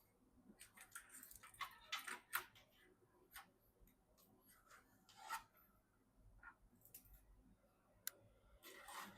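Faint scattered clicks, taps and rubbing of hardware being handled, with sharper clicks about two and a half seconds in, past the middle, and near the end.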